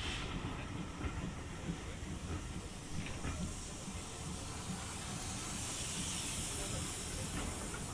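Steam locomotive hissing: a steady hiss of escaping steam over a low rumble, the hiss growing stronger in the second half.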